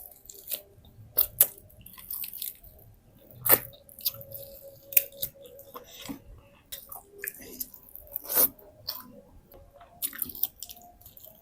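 Close-miked mouth sounds of a person eating: chewing, with irregular sharp smacks and crunches a few times a second.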